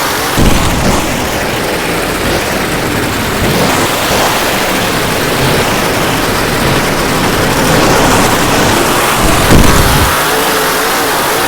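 A monster truck's engine running and revving, dense and noisy, with two heavier low thumps, one about half a second in and one near the end.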